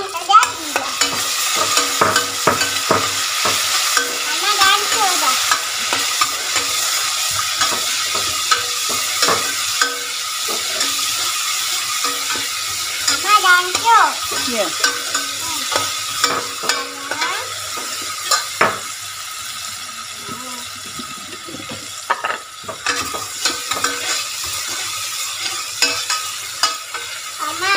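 Ground chilli paste and sliced shallots frying in oil in a stainless steel pot, sizzling steadily while a metal ladle stirs and scrapes, knocking against the pot now and then.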